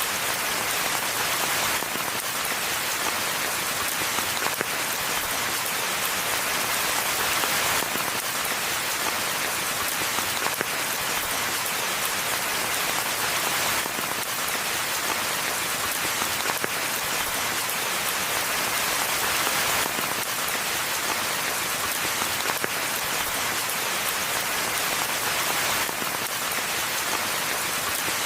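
Steady rainfall: a dense, even patter of drops that swells slightly every few seconds.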